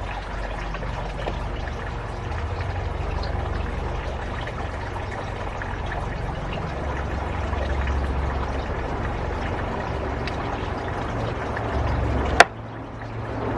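A steady pouring, trickling sound with a low rumble underneath. A single sharp click comes near the end.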